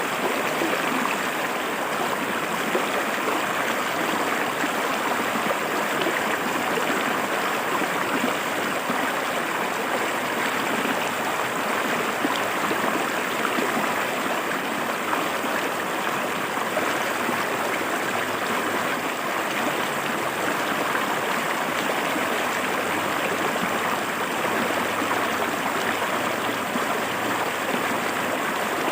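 A clear river flowing and splashing over rocks, a steady, even rush of water.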